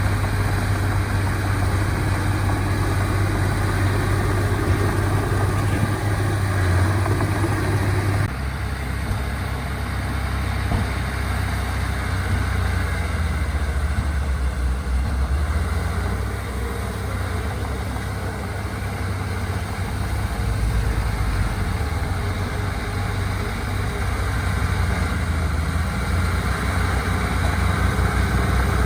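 Heavy earthmoving machinery engines running steadily at a construction fill site, with an abrupt change in the engine sound about eight seconds in.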